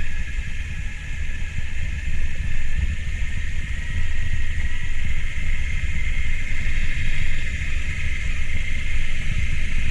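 Motorcycle engine running steadily under load as the bike climbs a steep dirt road in low gear, with a heavy, uneven low rumble.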